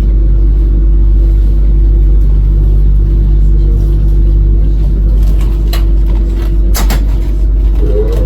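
Ivolga electric train running: a loud, steady low rumble with a steady hum, a few sharp clicks about two-thirds of the way in, and a short rising tone near the end.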